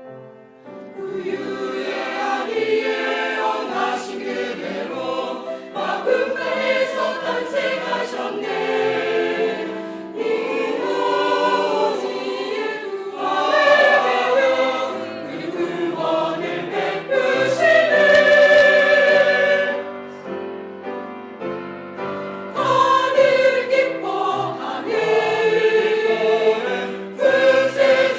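Church choir singing a Christmas cantata in phrases over piano accompaniment.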